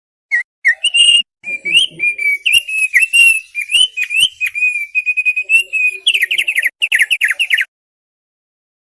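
Thick-billed heleia (opior paruh tebal) singing a run of varied clear whistled notes with a few sharp downward-swept ones. About six seconds in it breaks into a rapid series of quick falling notes, then stops.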